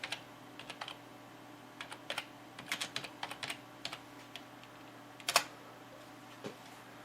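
Typing on a computer keyboard: irregular key clicks in short runs, with one louder click about five seconds in.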